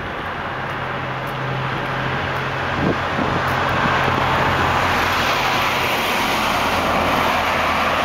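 A motor vehicle's engine runs with a steady low hum under a wash of road noise. The noise grows louder over the first few seconds and then holds steady.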